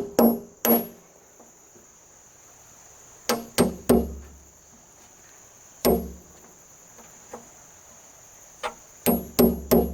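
Hammer driving nails into timber: sharp ringing blows, three at the start, a few scattered blows with pauses in the middle, then a steady run of about three blows a second near the end. Insects keep up a steady high buzz in the background.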